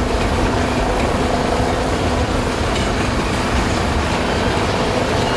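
Freight train's tank cars and covered hopper cars rolling past, a steady noise of steel wheels running on rail.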